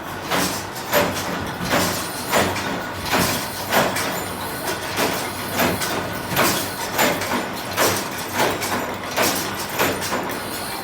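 A machine working in a steady repeating cycle, with a sharp stroke about every 0.7 seconds over a steady hum.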